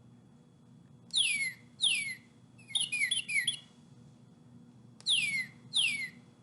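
Recorded northern cardinal song: two long, clear whistles sliding downward, then a quick run of about four shorter down-slurred notes. The phrase comes twice.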